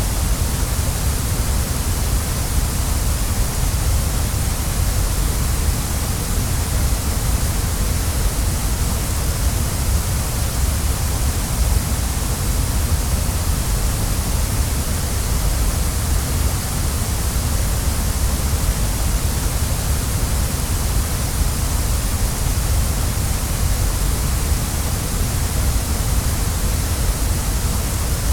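Waterfall: a steady, unbroken rush of falling water, deep at the bottom and hissing at the top, with no changes.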